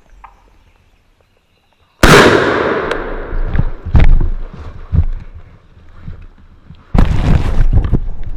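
A shotgun fired once at a turkey about two seconds in, a single loud blast that dies away over about a second. Knocks and rustling follow, with a louder stretch of rustling near the end.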